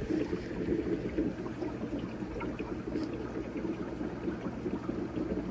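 Steady bubbling and trickling water from an aquarium's filtration, with small scattered bubble ticks.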